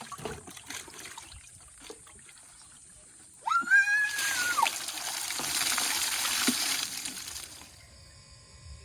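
Light splashing of water, then a single high cry rising and falling, followed by about three and a half seconds of water pouring down in a steady rush that stops suddenly, as when a pail of well water is tipped out while bathing.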